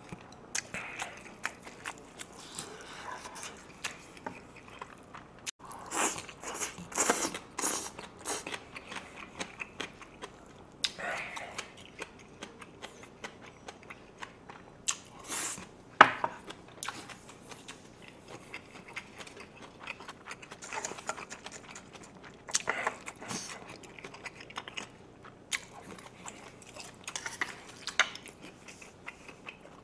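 A person chewing and crunching mouthfuls of grilled pork belly with minari, kimchi and rice, with irregular crisp crunches and clicks. The sharpest crunch comes about halfway through.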